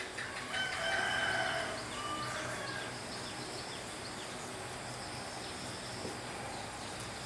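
A rooster crowing once, about half a second in, lasting around two seconds, followed by faint steady background noise.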